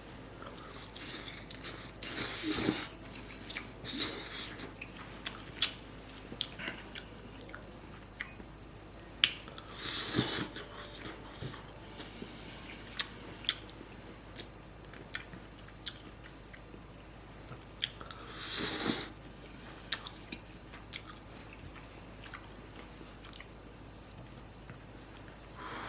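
A person eating ramen noodles close to the microphone: chewing with many small wet mouth clicks, and a few longer, louder swells of sound.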